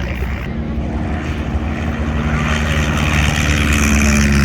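Propeller-driven aircraft engine droning steadily as the plane flies past, growing louder and rising slightly in pitch toward the end as it approaches.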